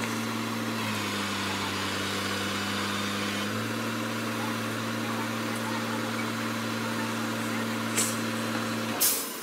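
Heavy diesel engine running steadily at a low pitch, dipping slightly in speed about a second in and picking back up a couple of seconds later. Near the end come two sharp knocks, the second louder, and the engine hum cuts off with it.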